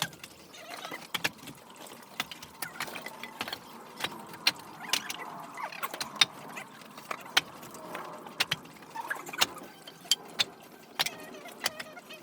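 Irregular sharp clicks and knocks, a couple a second, over a faint steady background hum.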